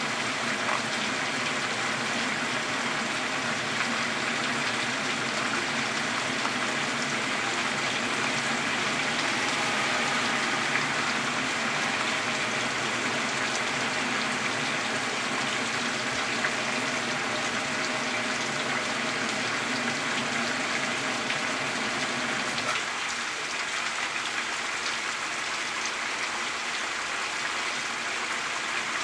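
Heavy rain falling steadily on a shingled roof, an unbroken hiss of rain and running water throughout.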